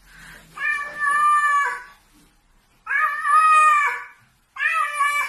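A cat meowing loudly three times, each a long drawn-out meow of about a second.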